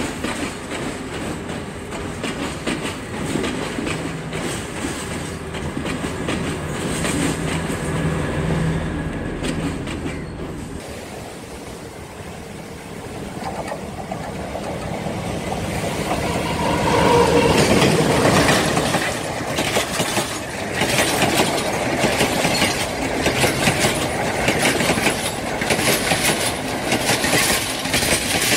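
Diesel passenger trains running past on the track: a steady low rumble, then, after a brief quieter spell, a train draws close and grows loud, its wheels clacking over rail joints in an even rhythm.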